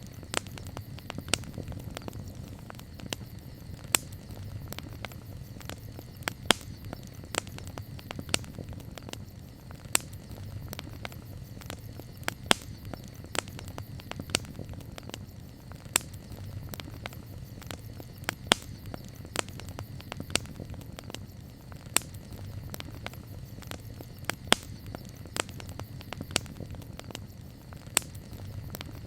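Wood campfire crackling: frequent sharp, irregular pops and snaps over a steady low rumble of the burning fire.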